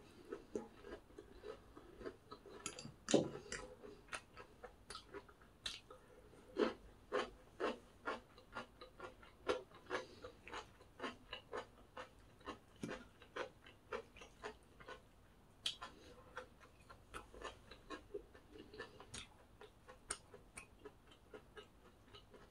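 Close-up chewing of a crisp, breaded, fried pork cutlet: a steady run of sharp crunches, about two a second, the loudest about three seconds in.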